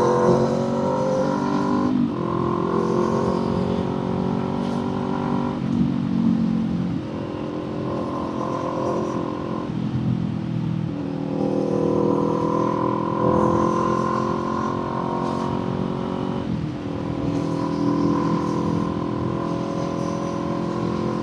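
Kawasaki Z400's parallel-twin engine and exhaust running under way, a steady engine note that steps to a new pitch every few seconds.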